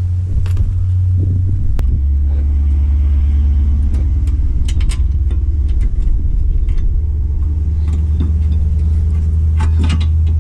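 Steady low mechanical rumble that drops slightly in pitch about two seconds in, with scattered light metal clinks over it.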